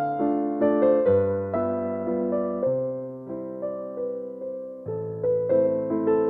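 Background piano music: a slow melody of single notes over bass notes that change every second or two.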